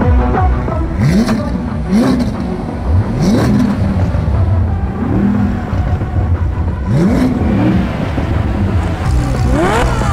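V8 sports car engines revving in short repeated blips, each a quick rise in pitch, while idling at the start line, over background music.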